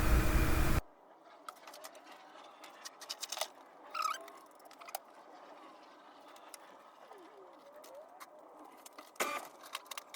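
Light, scattered clicks, taps and a couple of short clatters of hand tools working on an engine's intake parts. A loud steady noise cuts off suddenly less than a second in, and a few faint bird chirps sound in the background.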